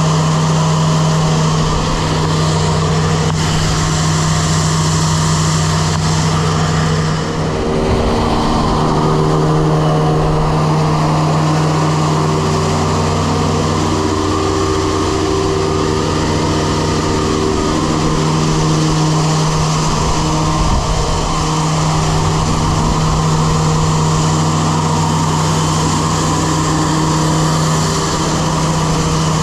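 Grain vac running steadily as it sucks old corn out of the crib: a loud, continuous machine drone with a strong steady hum.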